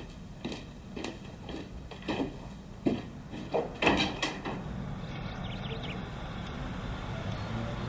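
A series of about eight sharp knocks, roughly two a second, growing louder, then a steady low rumble from about five seconds in.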